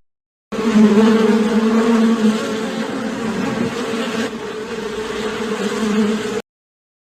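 A flying insect buzzing steadily in one low, even drone for about six seconds, starting after a short silence and cutting off abruptly.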